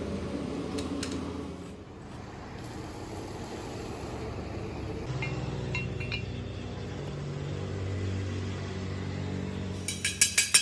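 A low machine hum whose pitch steps a few times, then a quick run of sharp metallic clinks near the end.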